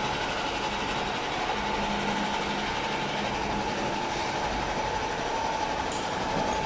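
Kawasaki C151 electric train standing at the platform, its on-board equipment running with a steady mid-pitched whine and a low hum over the station's background noise. Two short clicks come near the end.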